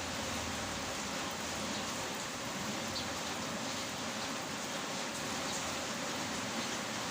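Heavy rain falling steadily, a continuous even hiss with faint drop ticks.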